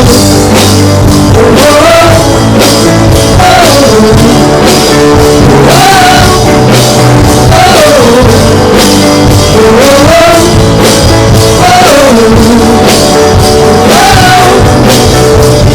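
Live worship band playing with drums, bass and guitar, and a voice carrying a wordless melody between sung lines.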